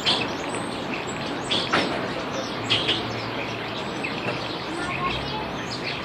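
Birds giving short chirps, a few every couple of seconds, over a steady hum of city background noise.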